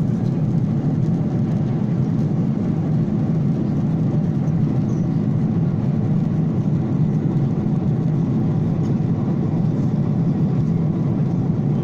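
Steady drone of an airliner cabin in flight: engine and airflow noise, low and unchanging.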